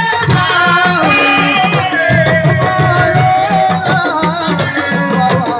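Live assiko band music: a voice sings long, wavering held notes over a steady, driving drum rhythm.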